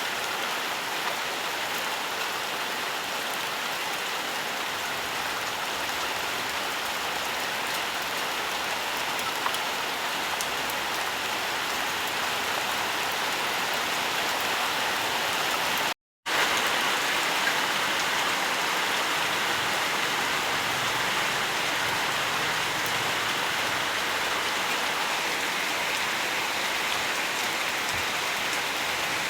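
Steady rain falling, a dense even hiss of drops, that cuts out to silence for a split second about halfway through.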